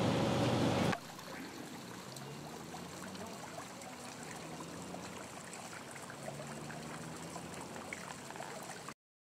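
A loud, steady rushing noise cuts off sharply about a second in. It gives way to a faint, steady trickle like a small stream of running water, which stops dead near the end.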